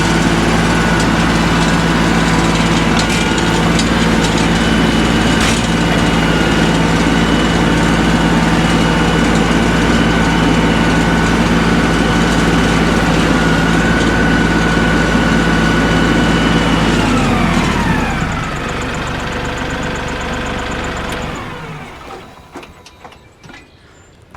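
LS compact tractor engine running steadily under throttle, then slowing down about two-thirds of the way through and shutting off near the end.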